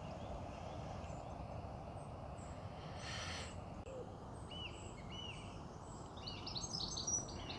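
Quiet outdoor evening ambience: a steady low background rumble with small birds chirping, the short calls coming more often near the end.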